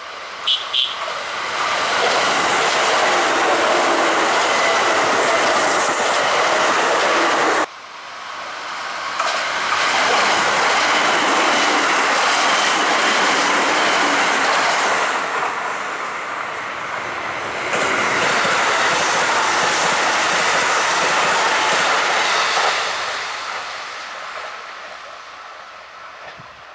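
Kintetsu electric trains passing close by at speed: a loud, steady rushing noise that cuts off abruptly about seven and a half seconds in, then swells again as another train passes and fades away near the end.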